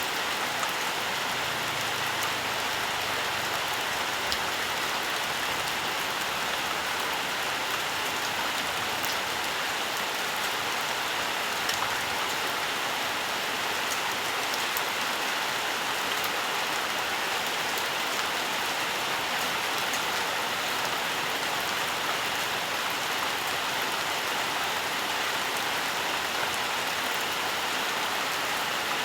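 Steady rainfall, an even hiss of rain on foliage and ground with faint scattered drop ticks.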